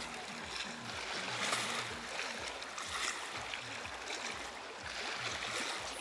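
Sea waves washing onto the beach in a steady surging hiss, with faint music underneath.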